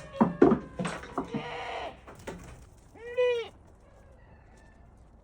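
A run of knocks and clatter in the first two seconds, then a single short call from a farm animal about three seconds in, its pitch rising and falling.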